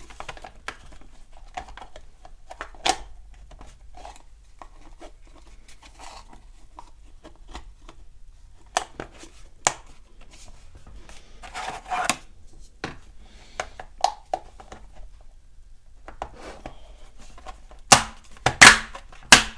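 Scattered clicks, rustles and knocks of a pressure washer's parts being handled and fitted back together, with a few sharp louder knocks near the end.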